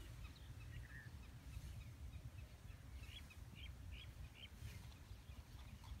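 Faint bird chirps: scattered single chirps, then a short run of four about three seconds in, over a low, steady outdoor rumble.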